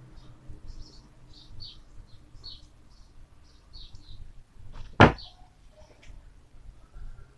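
A small bird chirping over and over, short high chirps about twice a second. About five seconds in comes a single sharp click, the loudest sound here, made while a copper wire is being bent with pliers.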